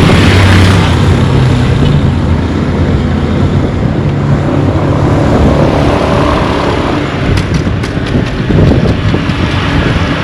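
Roadside traffic noise, with a motor vehicle running or passing and a steady low hum early on, mixed with wind buffeting the microphone.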